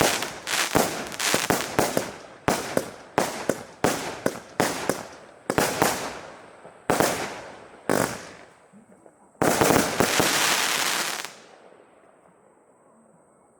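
Saturn missile firework battery firing: a rapid string of sharp pops, each with a short hissing tail, coming more slowly after the first few seconds. A final loud hiss of about two seconds stops suddenly about 11 seconds in.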